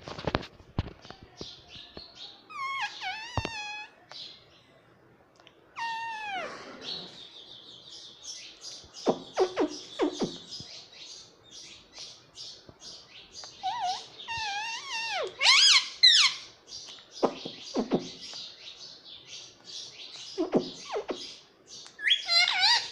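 Pet parrot chattering and calling: fast high chatter mixed with warbling, sliding whistle-like calls and a few louder squawks, with a few sharp clicks near the start.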